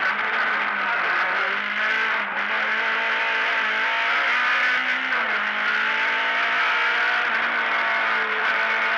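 Rally car engine at full load, heard from inside the stripped cabin. The engine note steps down in pitch about a second in and again about five seconds in, then climbs again, over steady road and cabin noise.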